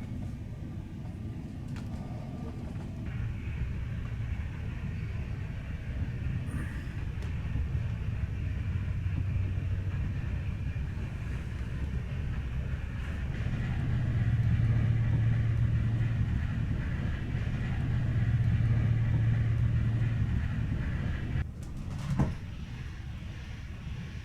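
Passenger train running on the rails, heard from inside a carriage: a steady low rumble that swells twice, with one sharp click a couple of seconds before the end.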